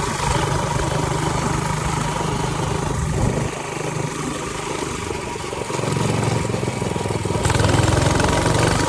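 Coleman CC100X mini bike's small single-cylinder engine running under throttle, still held back by its governor. It eases off about three and a half seconds in and builds again from about six seconds.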